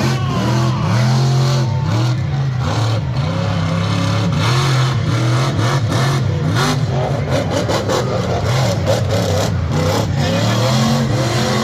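Racing truck engine revving hard, its pitch rising and falling again and again.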